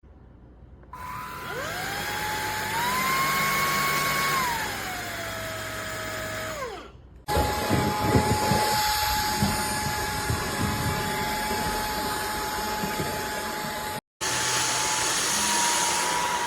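Eureka cordless stick vacuum's motor running with a whine that rises in pitch as it speeds up, holds, then sinks and stops. It then runs steadily with a rushing airflow hiss and a spell of low knocking, breaking off abruptly and resuming.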